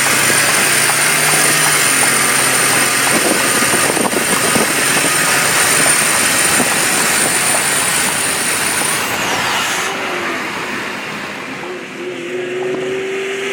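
Vehicles running at speed in a street race: a loud, steady rush of engine, road and wind noise that eases off slightly near the end.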